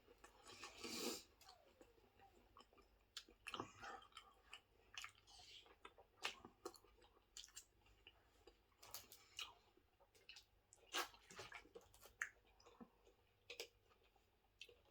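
Faint chewing of a mouthful of Subway sandwich, with irregular short wet clicks and smacks of the mouth.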